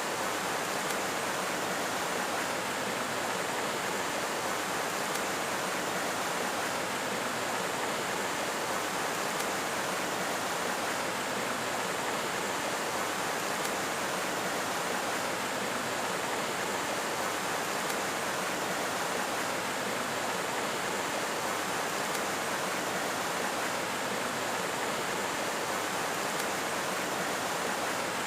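Steady rushing of running water that holds at an even level throughout.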